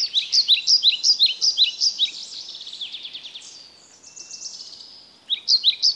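A songbird singing: fast runs of high, down-slurred chirps, thinning to a softer trill in the middle, with a new loud run of chirps starting near the end.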